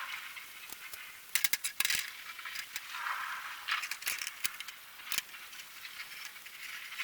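Light metallic clinks and rattling, a quick cluster about a second and a half in and a few single clinks later, over a soft hiss of rain.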